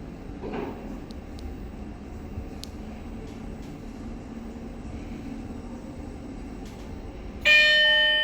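IFE Joymore traction lift car riding between floors, a steady low hum inside the car. About seven and a half seconds in, the arrival chime sounds once and rings out.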